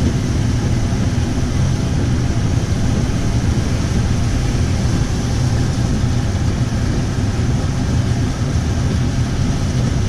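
Car driving, heard from inside the cabin: steady engine and road noise with a low hum.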